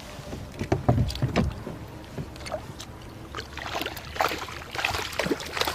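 Knocks, clicks and clatter of gear against a kayak, with some water noise, while a hooked trout is brought in and landed; a cluster of low thumps comes about a second in.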